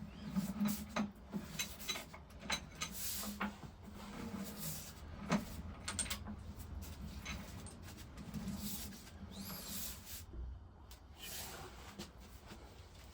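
Scattered metal clicks and knocks as a flywheel is worked onto the crankshaft of a Lister TM stationary engine, with one sharper knock about five seconds in.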